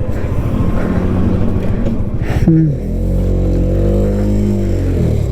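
Motorcycle engine running on the move. Its note falls about halfway through and settles into a lower, steadier drone.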